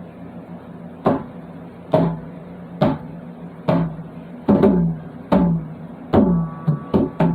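A musical instrument plays a riff of sharply struck notes about one a second, each note sliding down in pitch as it fades. The notes come quicker near the end.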